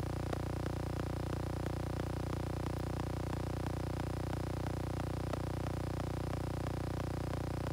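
A steady low hum with many overtones, with faint regular ticks about three a second over it.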